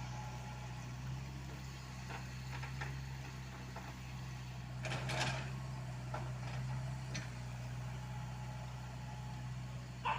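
Komatsu PC75UU mini excavator's diesel engine running steadily, with scattered light clanks and a short, louder noise about five seconds in.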